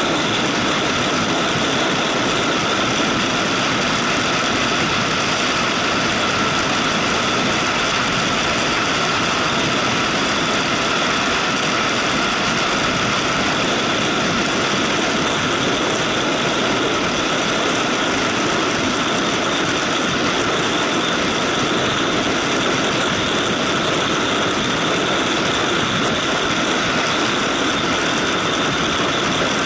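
Motorcycle running at a steady speed while riding, its engine and the rushing noise of the ride held even, with no change in pitch or level.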